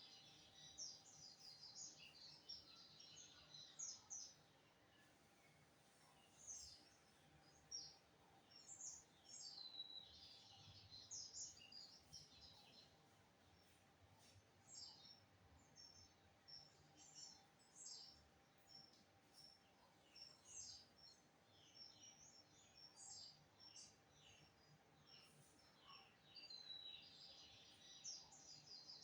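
Lined seedeater (bigodinho) singing, faint: repeated phrases of quick, high chirps and trills with short pauses between them.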